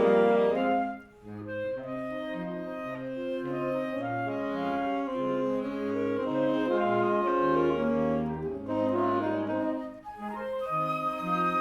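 Wind band playing: a loud full chord of clarinets and brass cut off about a second in, then a quieter passage of moving woodwind and brass lines over a low bass part.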